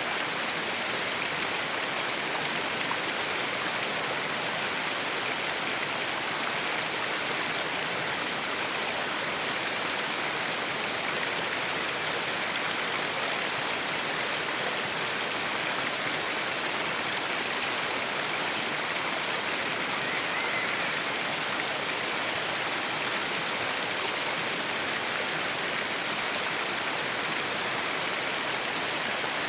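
Waterfall rushing and splashing in a steady, unbroken hiss.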